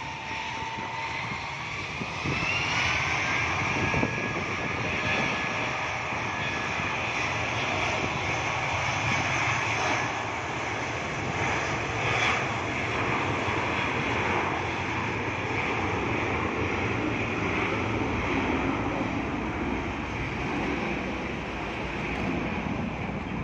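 Airliner's engines spooling up for takeoff: a whine rises in pitch about two seconds in, then holds steady over a loud, even rumble.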